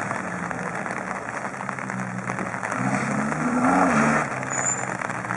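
Rally car engine on the stage, its note climbing as it accelerates about three seconds in, then falling away just after four seconds.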